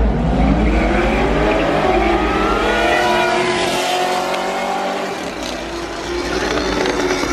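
A motorcycle and a Corvette drag racing, their engines accelerating hard. The pitch climbs over the first few seconds, then holds high and steady as they pull away.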